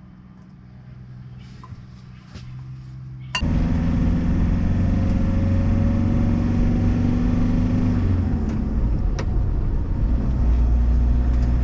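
A faint low hum, then about three seconds in a sudden change to a loud, steady campervan engine with road rumble, as from a Fiat Ducato van under way.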